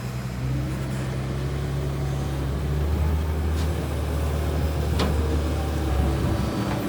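Heavy diesel engine of earthmoving machinery running steadily, its hum dropping lower about three seconds in. A single sharp click comes near the end.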